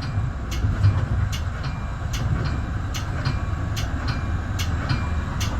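Metra bi-level commuter car running along the track, heard from inside the car: a steady low rumble with sharp clicks every half second or so.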